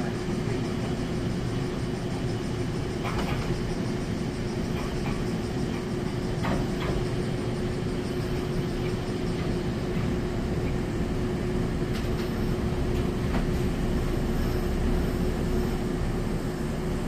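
Kintetsu 5200-series electric train pulling slowly into the platform: a steady low rumble with a constant hum and a few faint clicks.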